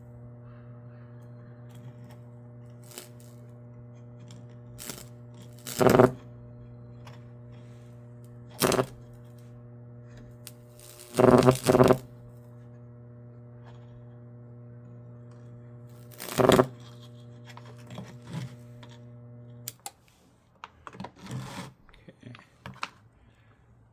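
Microwave oven transformer rig humming steadily while the high-voltage discharge crackles in several loud bursts as it burns a Lichtenberg figure into wood. The hum cuts off suddenly about 20 seconds in when the power is switched off, leaving a few small clicks.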